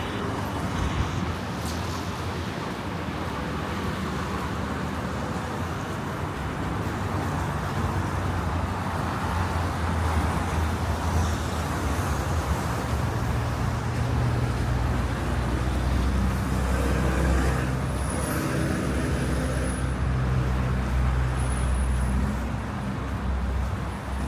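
City street traffic: a steady wash of cars passing, with a vehicle engine's low hum growing louder about halfway through.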